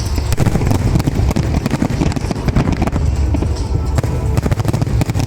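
Fireworks display: a dense run of rapid bangs and crackles over loud music.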